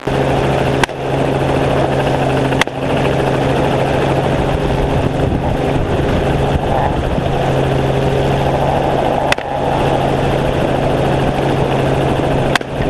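Helicopter running steadily in flight, a loud constant rotor and engine drone with a low steady hum. A few brief sharp clicks break through it.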